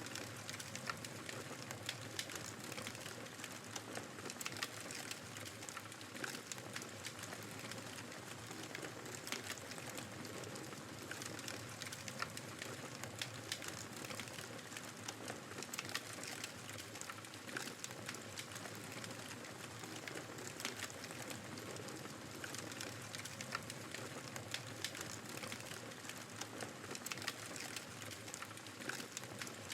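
Wood fire crackling in a fireplace, with frequent sharp pops and snaps over a steady rushing noise of blizzard wind.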